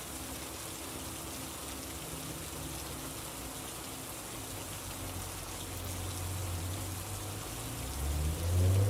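Steady rain, an even hiss of drops falling on a surface. In the second half a low engine-like hum builds, and near the end it rises in pitch as it grows louder.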